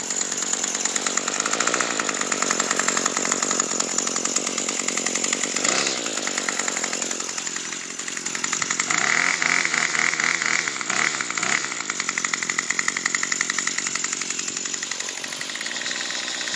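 Craftsman 25cc two-stroke string trimmer engine running shortly after a cold start, its speed rising and falling: it drops about seven seconds in, then climbs higher for a few seconds before settling back.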